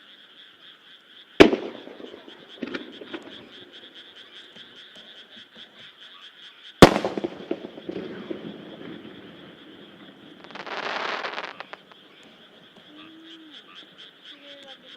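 Two large aerial firework shells bursting about five seconds apart, each a sharp bang followed by an echoing rumble, with a weaker pop shortly after the first. A steady chorus of croaking frogs runs underneath, and a brief hissing crackle comes near the end.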